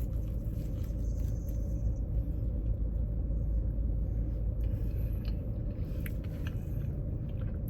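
Steady low rumble inside a car cabin, with a few faint clicks of chewing in the second half.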